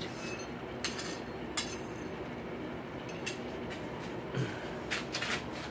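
A few light metallic clinks, spaced irregularly, over a steady background hiss: steel tools and the rail-spike workpiece being handled at the anvil.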